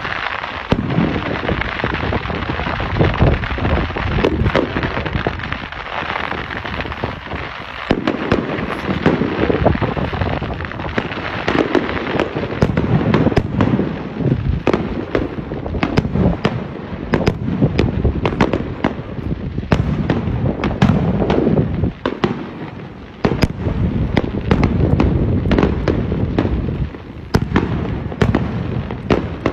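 Fireworks display: a continuous run of bangs and crackling from shells bursting overhead, dense throughout with a short lull a little past the two-thirds mark.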